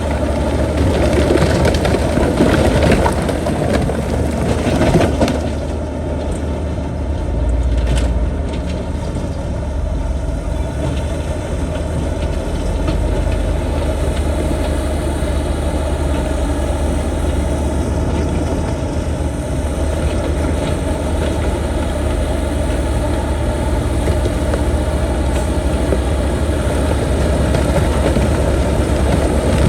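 Heavy diesel engine of a bulldozer running steadily with a deep hum; for the first five seconds or so it is joined by the crunching and grinding of rock being pushed.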